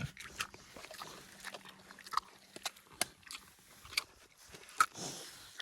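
Pigs chewing and crunching on cucumber: irregular crunches and clicks, the loudest a little before five seconds in.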